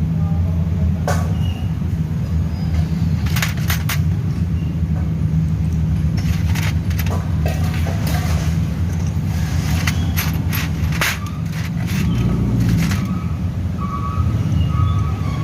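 Small engine running steadily, with scattered sharp clicks and knocks over it.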